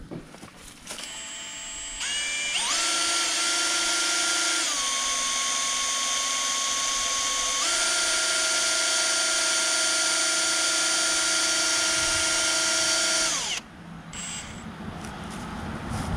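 Small electric fuel transfer pump motor running with a steady high whine. It steps up in pitch a couple of seconds in, drops lower for about three seconds, rises back, and cuts off abruptly near the end. It is running dry, not yet drawing fuel.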